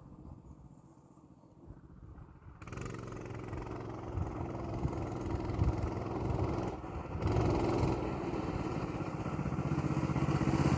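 Coleman BT200X mini bike's small single-cylinder four-stroke engine, faint at first, then suddenly louder about two and a half seconds in as it is ridden under throttle, growing louder toward the end with a brief dip near the middle.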